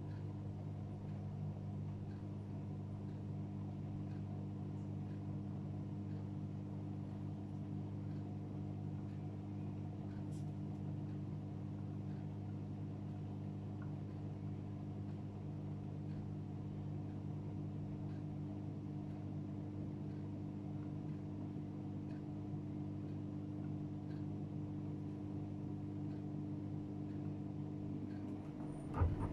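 AEG Öko Lavamat 76910 washing machine running with a steady, even hum, with a sharp click near the end.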